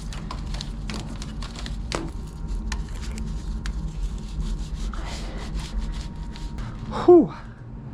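Protective wrap being pulled and rubbed around a part by hand: scratchy rubbing with many small clicks and crackles over a steady low hum. About seven seconds in, a loud, short, falling "whew" from the person working in the cold.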